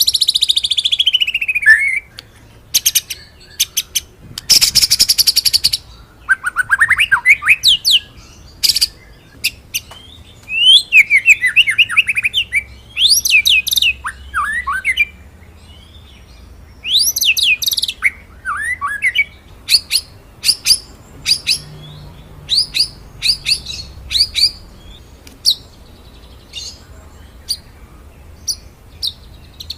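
White-rumped shama (murai batu) singing: a falling whistle, rapid trills and sharp, clipped notes in quick succession, with a short harsh buzzy phrase a few seconds in. In the second half the song breaks into a string of short, sharp notes.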